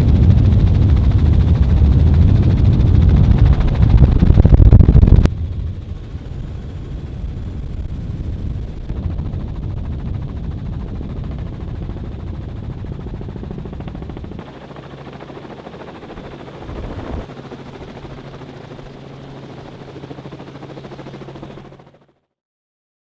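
Helicopter rotor and engine noise, loud and rapidly pulsing close by, cutting abruptly about five seconds in to a quieter, steadier helicopter drone that stops dead near the end.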